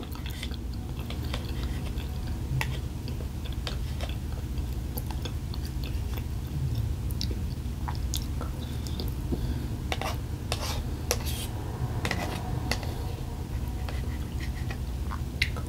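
A person chewing food, with scattered small clicks over a steady low hum.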